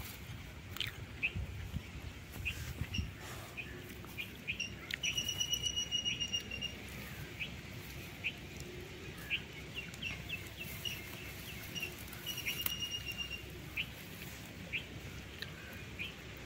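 Background bird calls: three high, evenly beaded trills of a second or more, about five to seven seconds apart, with scattered short chirps between, over a soft rustle of grass.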